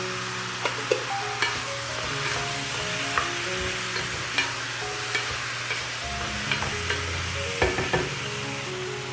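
Food sizzling as it fries in a pan and is stirred, with a utensil clicking and tapping against the pan about a dozen times.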